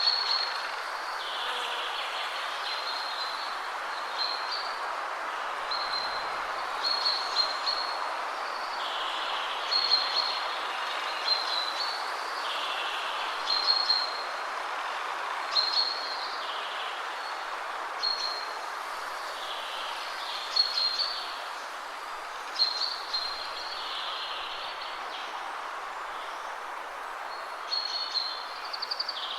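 Steady wind rushing through trees. Over it, a songbird repeats short, high call phrases about every two seconds.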